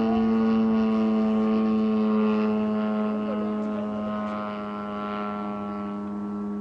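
Engine and propeller of a large radio-controlled Super Decathlon model airplane running at a steady pitch, easing slightly quieter after about three seconds.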